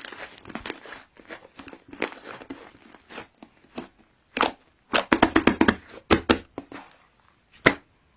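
Irregular crinkling and crackling with many sharp clicks, as of something being handled, crumpled or torn. It is densest about five to six seconds in, with one loud snap near the end.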